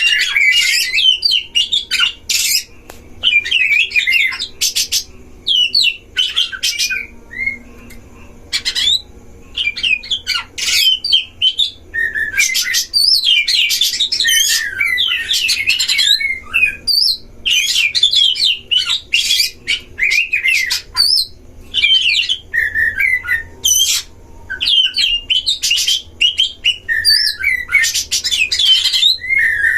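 Oriental magpie-robins singing against each other in a song duel: loud phrases of rapid, varied whistled and harsh notes, each a second or two long and broken by short pauses.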